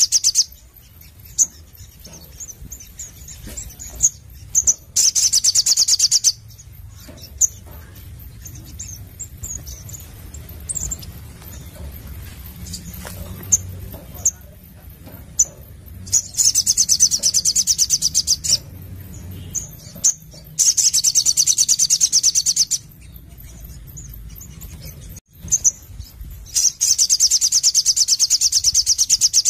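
Sogon sunbird singing: loud, rapid high trills of a few seconds each, five times, with single short chirps between them.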